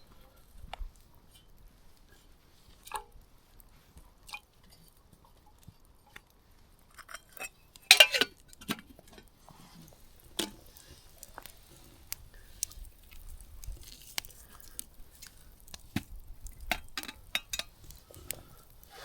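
Scattered small clicks and knocks of chaga chunks and cookware being handled for a chaga tea infusion, with one louder clatter about eight seconds in.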